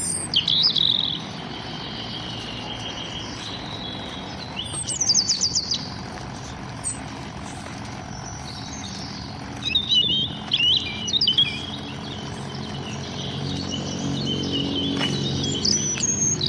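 Songbirds singing and chirping in short bursts of high phrases, with gaps between them. A low background rumble grows louder near the end.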